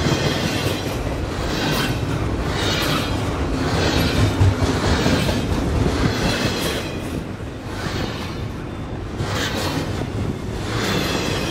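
Double-stack container well cars of a freight train rolling past: a steady rumble of steel wheels on rail, with a clatter roughly once a second as wheelsets cross rail joints.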